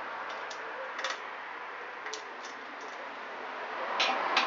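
A handful of light clicks and taps from the Honda SL125's drive chain being handled and taken off its sprocket, with two sharper clicks near the end.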